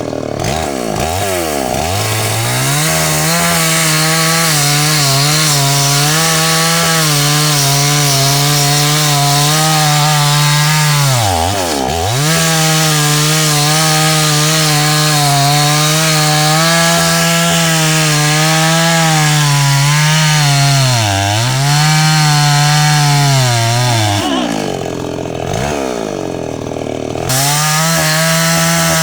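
Two-stroke chainsaw running at high revs as it cuts into a tree. The revs drop briefly twice, then fall away for a few seconds near the end before it revs up again.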